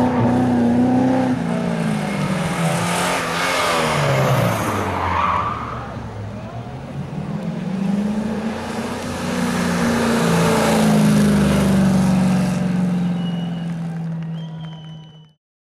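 Rally car engine revving hard, its pitch climbing and dropping repeatedly through gear changes and braking, with some tyre squeal. Near the end the engine holds a steadier note, then the sound cuts off abruptly.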